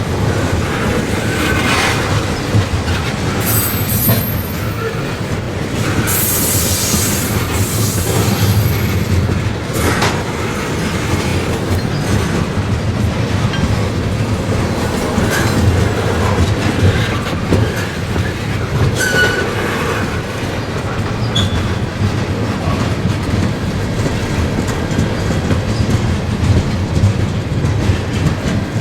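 Freight train rolling by with a steady rumble and wheels clattering over the rails, broken by short high-pitched wheel squeals.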